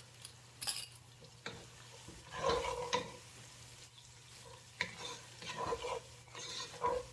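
A spoon stirring in a pot, scraping and knocking against the metal in irregular strokes with a brief ring, over a low sizzle of onions, garlic and whole spices frying in ghee and oil.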